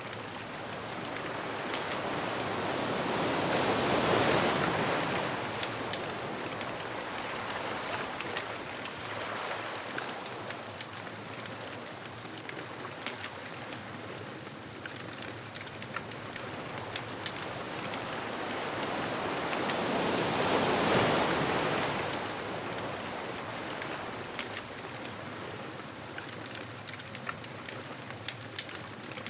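Ocean waves breaking and washing up the beach, two swells building and falling back about 17 seconds apart, under a constant scatter of small pops and crackles from a wood bonfire.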